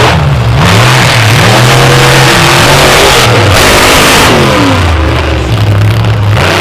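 Monster truck engines revving hard under racing throttle, their pitch repeatedly climbing and dropping, with a dense hiss above.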